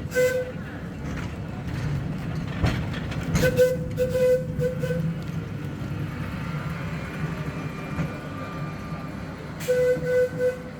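Sóller electric tram running along the street with a steady low rumble and a couple of sharp clicks from the wheels on the rails. Its horn sounds a string of short toots twice, about three and a half seconds in and again near the end.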